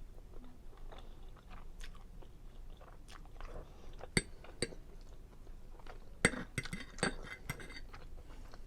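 Close-up chewing of seafood linguine Alfredo: soft, wet, irregular mouth sounds. A few sharp clicks stand out about four seconds in and again a couple of seconds later.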